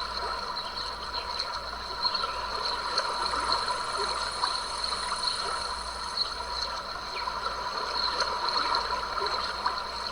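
A small stream running with an even, trickling and gurgling wash of water, with a few steady high-pitched tones held beneath it.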